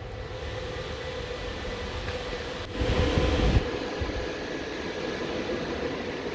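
Steady machine hum with a faint constant tone over a noisy drone, briefly swelling into a louder low rumble a little before halfway.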